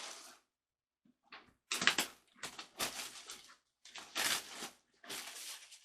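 A series of short bursts of knocking and scraping handling noise, each under a second long, separated by sudden breaks.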